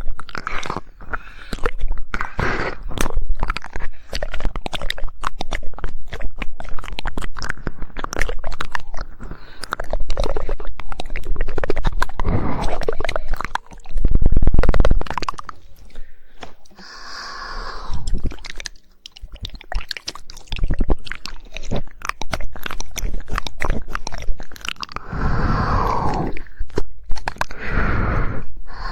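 Close-miked ASMR mouth sounds: rapid tongue clicking in quick 'woodpecker' runs, mixed with wet, crunchy mouth noises.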